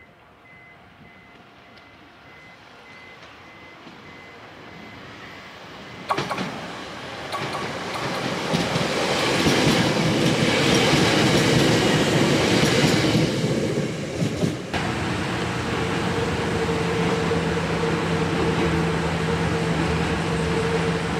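A Nose Electric Railway 5100-series electric train approaches and passes close by on the tracks, its wheels and running gear growing from faint to loud and peaking about ten seconds in. A few seconds later the sound cuts abruptly to a steady hum with a constant low tone, like that heard inside a moving train car.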